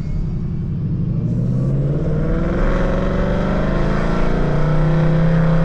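2024 Ford Mustang GT's 5.0 V8 with Kooks headers accelerating, its exhaust in normal mode: the engine note climbs steadily and grows louder from about a second in.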